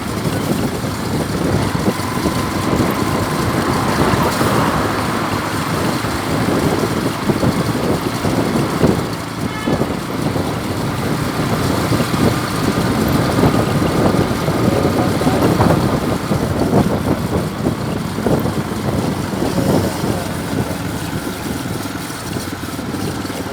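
Steady road traffic: vehicle engines running and road noise.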